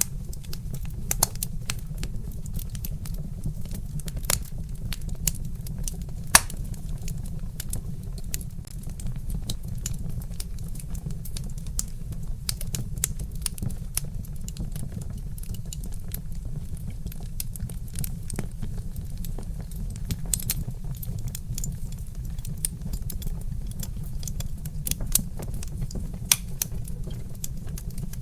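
Wood fire crackling in a fireplace: irregular sharp snaps and pops over a steady low rumble, with one loud pop about six seconds in.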